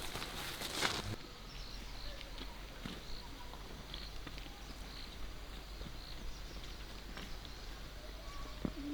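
Quiet rural ambience with faint, scattered short chirps of small birds; a burst of rustling through vegetation in about the first second cuts off abruptly.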